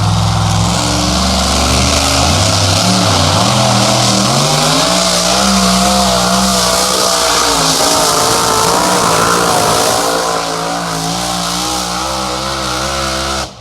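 A pulling vehicle's engine running hard under load as it drags the sled, over a loud hiss. Its pitch climbs over the first few seconds, then wavers up and down as the revs rise and fall.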